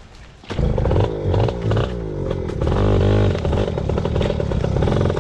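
Yamaha PW80 pit bike's small two-stroke single engine, coming in loudly about half a second in, then revving up and down over and over as the throttle is worked.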